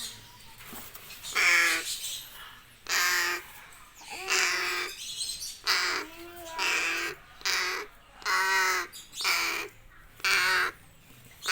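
A crow cawing repeatedly: about eight harsh calls, each under a second long and roughly a second apart.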